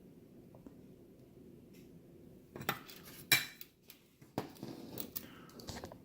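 Metallic clinks and clatter of small tools and parts being handled: a run of sharp clicks starting about two and a half seconds in, the loudest a little after three seconds.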